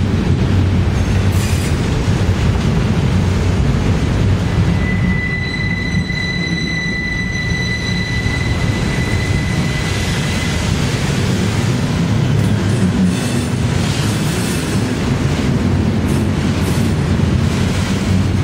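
Freight train of autorack cars rolling past close by, a steady heavy rumble of steel wheels on rail. From about five seconds in, a high-pitched wheel squeal holds for about five seconds before fading.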